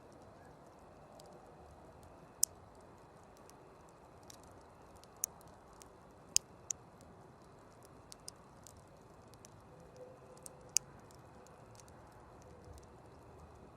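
Campfire burning: irregular sharp crackles and pops from the burning wood, a handful of louder snaps among fainter ones, over a low steady hiss.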